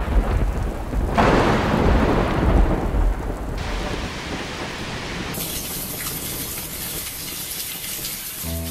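Thunder rumbling over heavy monsoon rain. After about three seconds the thunder dies away and steady rain goes on.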